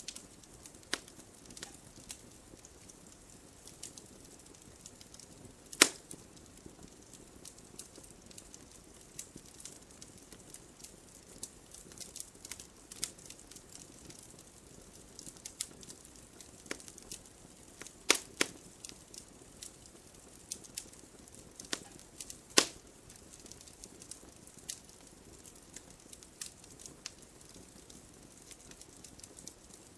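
Campfire crackling: irregular sharp snaps and pops of burning wood over a faint steady hiss. A few pops are much louder, about six seconds in, around eighteen seconds and about twenty-two seconds in.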